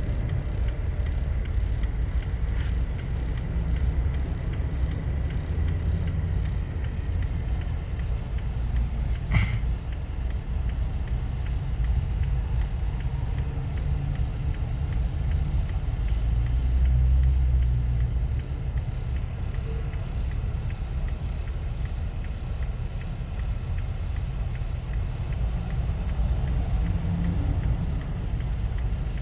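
Steady low rumble of a motor vehicle, with one short sharp click about nine seconds in.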